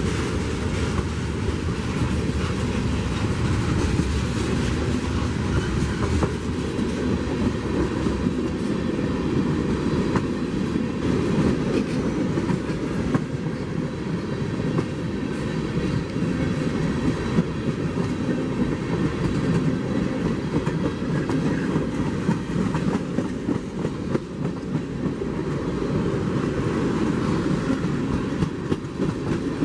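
Train cars rolling past steadily, wheels clacking over the rail joints with a continuous low rumble.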